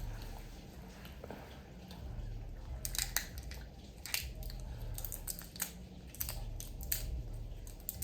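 Close-up crunching and crackling of chewing crispy fried chicken and fries, in short sharp bites that come thickest from about three seconds in.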